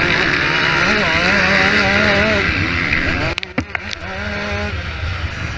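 Motocross motorcycle engines revving hard, their pitch rising and falling through gear changes and throttle blips. About three and a half seconds in there is a brief dip with a few sharp clicks.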